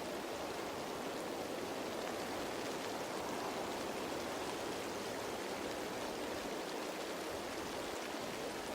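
Rain falling on leaves, a steady, even hiss of drops.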